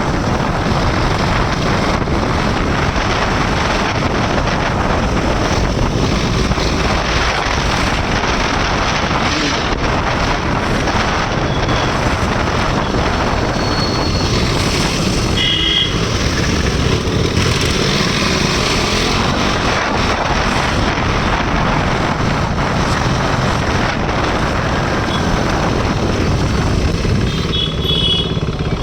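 Wind rushing over the microphone while a KTM RC 390's single-cylinder engine runs underneath at riding speed. A short high tone sounds about halfway through and again near the end.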